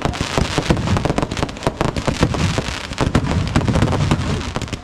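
A dense, irregular run of sharp cracks and bangs, many per second.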